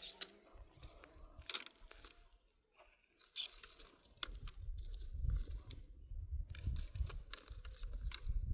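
Irregular crunching and crackling, with a low, uneven rumble joining about halfway through.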